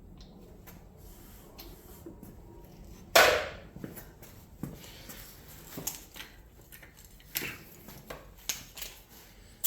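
A short hiss of compressed air at a motorcycle tire valve about three seconds in, fading quickly, followed by scattered light clicks and knocks of handling the air chuck and tools.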